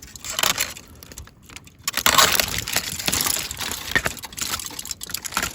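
Aluminium foil crinkling and rustling as a foil-wrapped tenderloin is handled and opened, with scattered small clicks; it gets louder about two seconds in.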